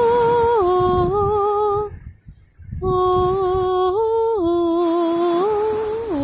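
A woman humming or singing wordless long held notes, stepping from one pitch to the next, with a pause for breath about two seconds in.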